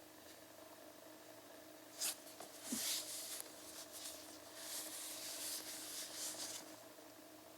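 Irregular rubbing and scraping handling noises, beginning with a sharp click about two seconds in, over a faint steady hum.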